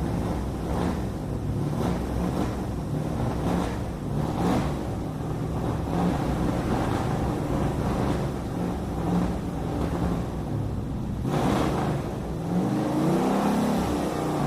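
A motor runs steadily with a low drone and repeated surges, then revs up with a rising pitch near the end.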